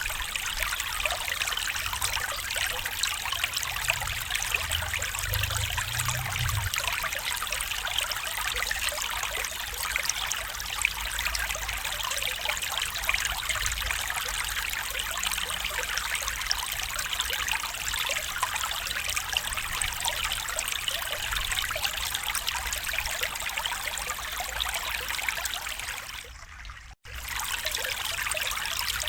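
Stream water running and trickling steadily. It cuts out abruptly for a moment near the end, then resumes.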